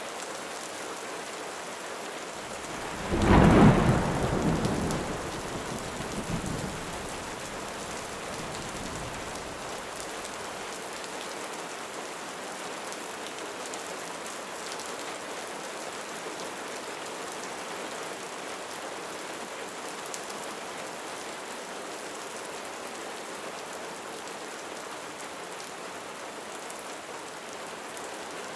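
Steady rain falling on a roof, with one thunderclap about three seconds in that peaks loudly and then rumbles away over several seconds.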